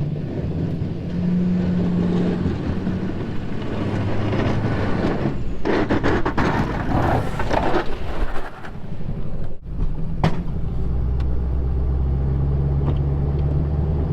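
Snowplow truck's engine running steadily, heard from inside the cab. A louder rough rushing noise rises over it from about six to eight seconds in, and there is a brief dropout and a click shortly after.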